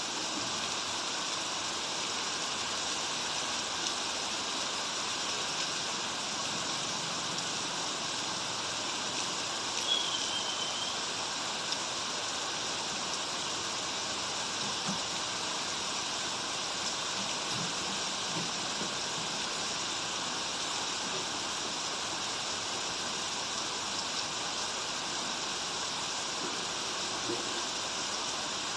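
Steady rain and running creek water making an even hiss. About ten seconds in, a short high chirp sounds once, falling slightly in pitch.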